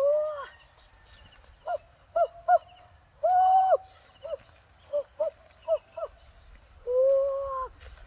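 An animal calling over and over: clusters of short notes, with longer held calls of about half a second, over a steady high hiss.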